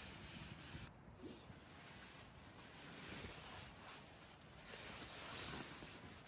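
Faint rustling and rubbing sounds that swell up a little about five seconds in.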